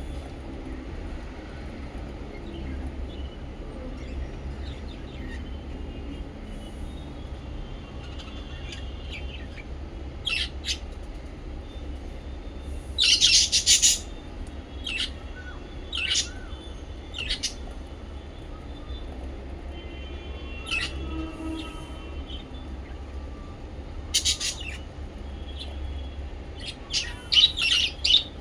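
Lovebirds and budgies calling: short, sharp chirps come in scattered bursts, with quieter twittering in between. The loudest burst is about halfway through and another comes near the end, over a steady low hum.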